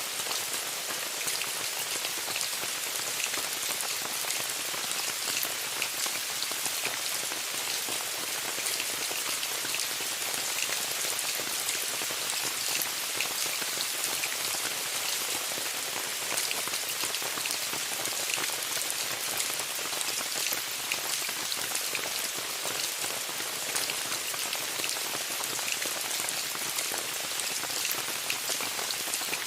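Steady rain falling on a tent, a dense even patter of many small drop ticks hitting the fabric.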